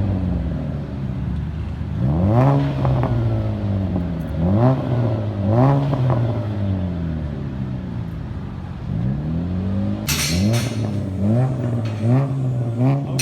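Car with a loud aftermarket 'ricer' exhaust being revved over and over in place, the engine note climbing and dropping back to idle several times. A hiss joins in near the end.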